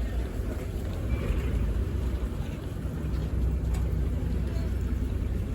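Cross-river ferry boat's engine running steadily with a low, even drone.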